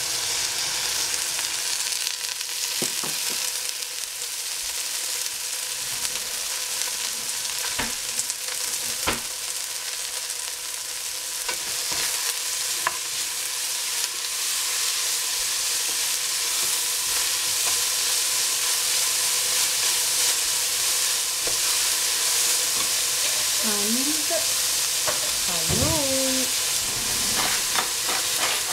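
Shredded cabbage and vegetables sizzling in a stainless steel pot as they are stirred with a wooden spoon: a steady frying hiss with now and then a click of the spoon against the pot.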